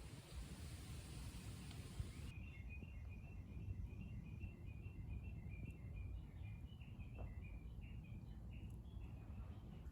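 Outdoor ambience with a small bird chirping in rapid short high notes, several a second, over a low rumble. A steady hiss in the first two seconds cuts off abruptly, and the chirping begins right after.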